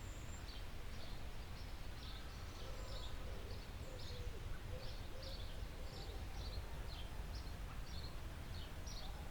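Forest birds chirping: a stream of short, high chirps about two or three a second, with a few fainter lower calls among them, over a steady low rumble of background noise.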